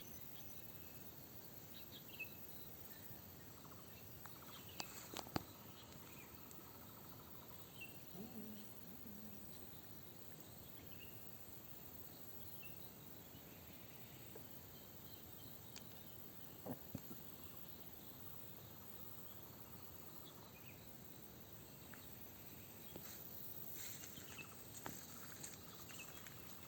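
Faint outdoor ambience: a steady high insect drone with scattered small chirps, and a few sharp clicks, the loudest about five seconds in and again around seventeen seconds.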